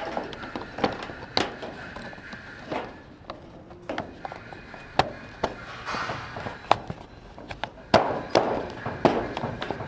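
Irregular sharp knocks, taps and clatter, with a few short rough scraping stretches, as pipes and tools are handled during plumbing work.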